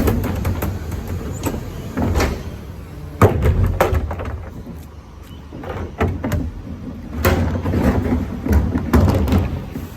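Garbage truck running, with a steady low rumble and a series of sharp bangs and knocks through it.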